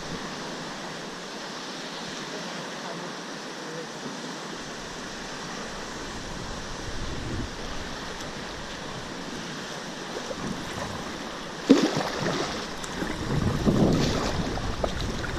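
Steady rush of river water. About twelve seconds in, a sudden loud splash or knock starts louder, irregular splashing and buffeting on the microphone.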